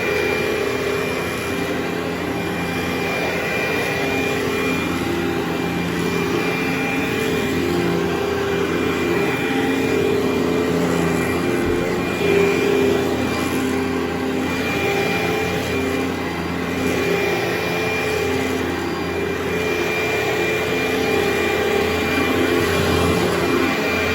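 Carpet-cleaning machine running steadily: a motor hum with a rushing noise over it, at an even level throughout.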